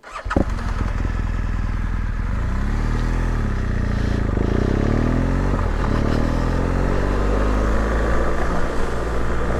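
BMW R1200GS boxer-twin motorcycle engine running as the bike rides through a deep river ford, its pitch rising and falling with the throttle, over the rush of water being churned up. The sound starts abruptly.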